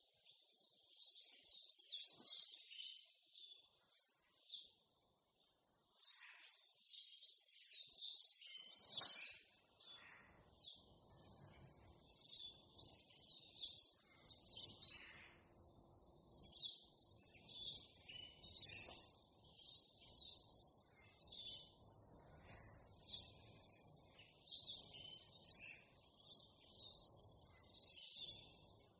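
A chorus of several songbirds chirping and trilling in high, quick phrases that overlap continuously, with a faint low background hiss of the surroundings.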